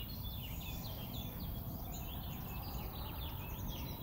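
Wild birds singing, a quick run of chirps and trills throughout, over a steady low background rumble.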